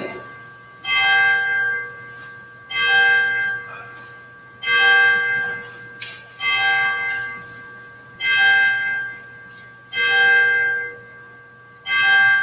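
A single church bell tolling, struck about every two seconds at the same pitch, seven strikes, its tone ringing on between strikes.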